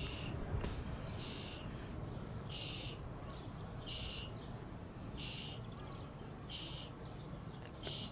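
Wind rumbling on the microphone, with a short, high, buzzy call repeating evenly about every second and a quarter, seven times.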